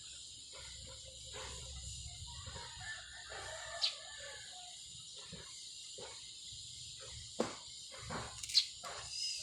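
A rooster crows once, about three seconds in, over a steady high hiss. Several sharp clicks and taps come near the end, the loudest at the very end.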